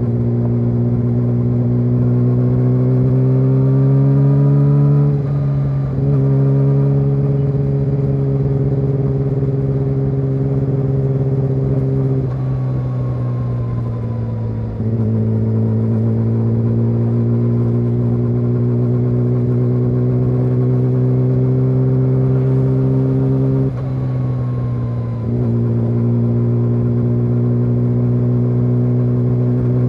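Yamaha YZF-R6's inline-four engine through an SC-Project SC1-R exhaust, running steadily under light throttle with its pitch climbing slowly, breaking off briefly three times as gears are changed.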